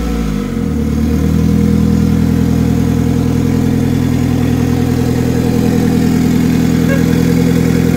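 Turbocharged four-cylinder engine of a home-built go-kart running: its revs drop about half a second in, then it holds a steady speed.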